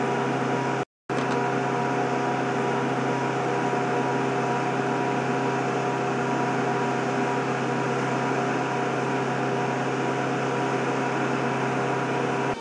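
Steady drone of a C-130's four turboprop engines heard inside the aircraft, a constant hum with several fixed tones. It cuts out completely for a moment about a second in.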